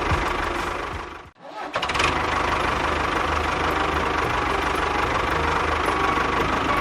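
Engine running steadily with a low, even pulse; it cuts out briefly about a second and a half in, then picks up again.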